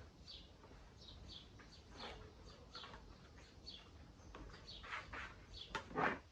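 Domestic chickens calling with short, high chirps, about one or two a second, with a louder, sharper sound near the end.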